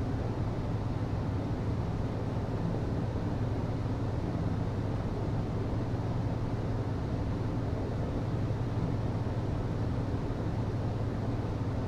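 HVAC system running: a steady low hum with an even rush of air noise over it, unchanging throughout.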